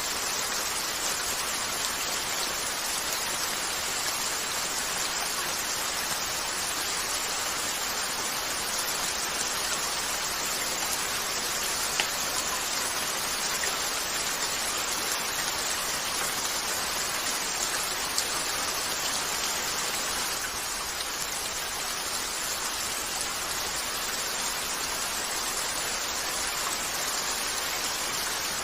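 Steady rain, an even hiss of falling drops, with two faint pops partway through.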